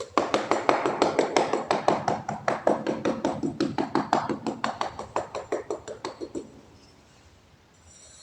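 Rapid, regular tapping, about seven sharp taps a second, for about six and a half seconds before it stops.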